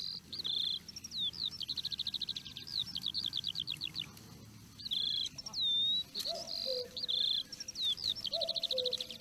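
A songbird singing the same phrase twice, each time a few high whistled notes running into a fast trill. From about halfway a fainter, lower call repeats every couple of seconds.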